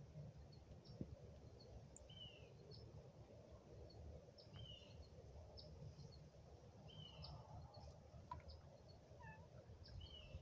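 Faint outdoor birdsong: short high chirps and a repeated curved call about every two and a half seconds, over a low steady rumble.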